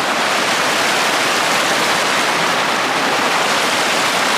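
Himalayan mountain river rushing over rocks: a loud, steady noise of fast-flowing water, heard from right in the river.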